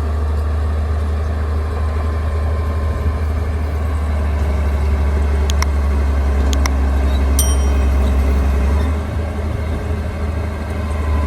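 Bulldozer's diesel engine running with a steady low drone, with a few sharp metallic clinks and one ringing clank about halfway through. The drone eases briefly near the end.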